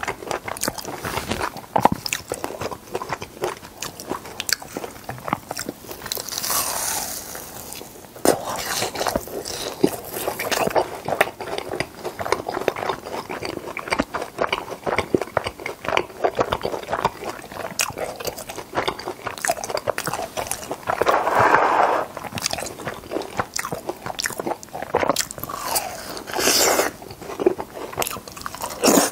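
Deep-fried cheese balls with a creamy sauce being bitten and chewed: a dense run of crisp crunching and crackling in the mouth, with a few louder, hissier stretches.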